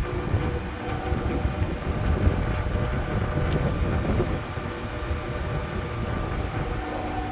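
Steady low machinery rumble and hum, with a few constant tones over it.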